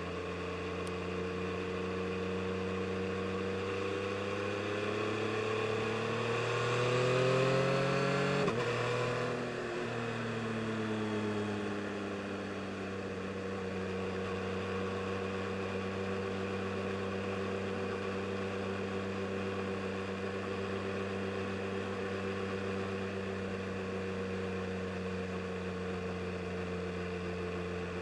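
2022 Yamaha MT-09 SP's inline three-cylinder engine under way. The revs climb for a few seconds, drop sharply about eight seconds in as the throttle comes off, wind down, and settle into a steady cruise.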